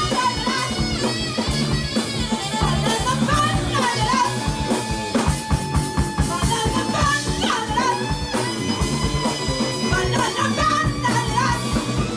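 Live rock band playing an instrumental passage: drum kit and bass keep a steady beat under a lead melody line, which holds one long note about halfway through.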